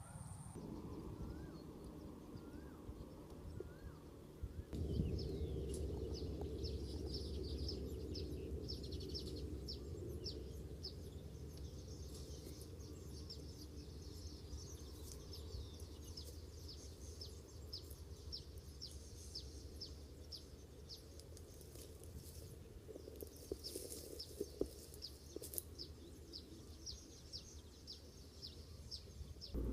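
Asian golden weavers chattering: long runs of short, quickly repeated high calls that start about five seconds in, over a steady low background rumble.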